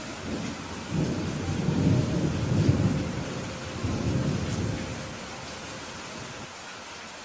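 Steady rain falling, with a low roll of thunder that swells about a second in and dies away by the fifth second.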